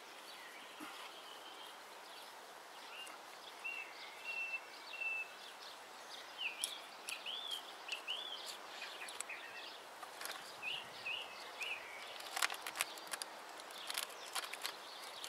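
Small birds calling and chirping, short whistled and up-and-down notes repeated through the middle, over a steady outdoor hiss. Near the end, a run of short clicks and rustles as seedlings and soil are handled.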